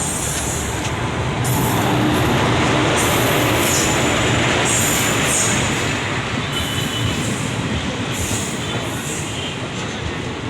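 Train passing at a railway station: a steady loud rumble of the carriages on the track, loudest a couple of seconds in, with short high-pitched wheel squeals coming and going.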